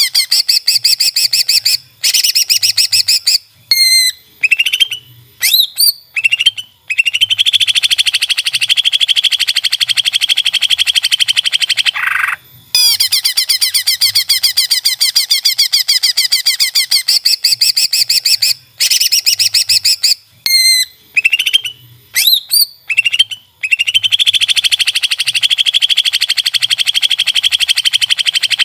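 Cucak ijo (green leafbird) master song recording playing loud. It runs through rapid chattering trills, a few sharp upward-gliding whistles and a long dense buzzy run. The whole phrase repeats about every 16 to 17 seconds, as a looped tutoring track does.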